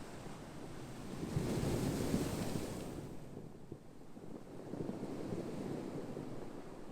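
Ocean waves breaking: one wave builds and crashes about a second and a half in, the loudest part, then washes back, and a softer wave follows a few seconds later.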